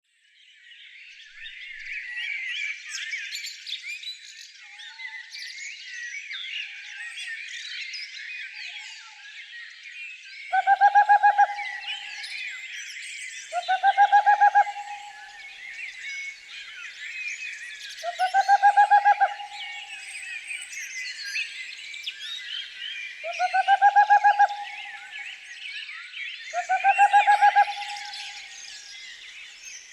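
Many wild songbirds chirping and singing together in a dense, continuous chorus. From about ten seconds in, a louder, lower call of about a second, with a fast pulsing texture, repeats five times at intervals of three to five seconds.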